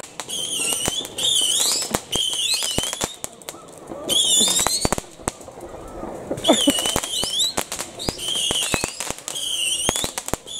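Fireworks going off close by: a string of warbling whistles that waver up and down in pitch, each under a second, over many sharp crackles and pops.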